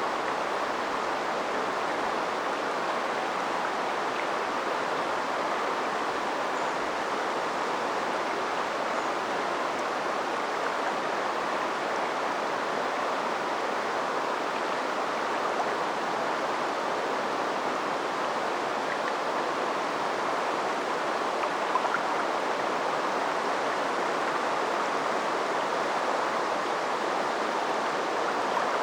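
River water flowing and babbling over stones in a steady, even rush, with a couple of faint clicks about three-quarters of the way through.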